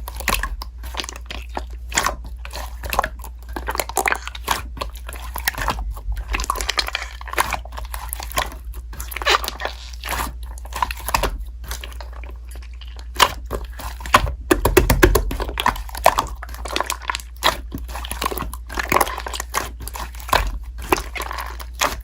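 Slime being squeezed and pressed by hand, giving a dense run of irregular crackling clicks and pops. The clicks crowd together more loudly about two-thirds of the way through.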